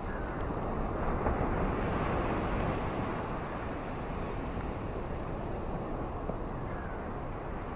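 Steady rain ambience with wind, a low even rushing that swells slightly a second or two in.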